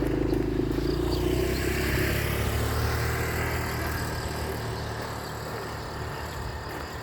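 A motor vehicle passing close by, its engine loudest at first and then fading steadily as it moves away.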